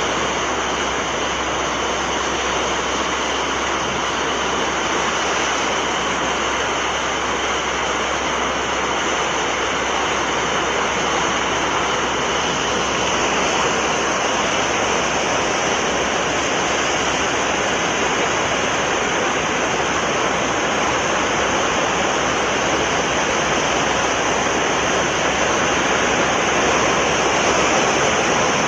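Sea waves: a steady, unbroken rush of surf.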